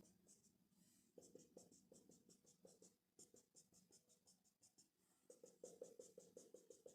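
Faint, rapid strokes of a marker drawing on a whiteboard, about five or six a second, coming in runs: one from about a second in, and a denser one near the end.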